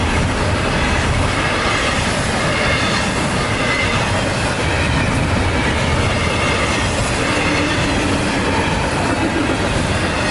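Double-stack container freight train passing at full track speed: a steady, loud rumble and rattle of wheels and cars on the rails, with a faint high wheel squeal running through it.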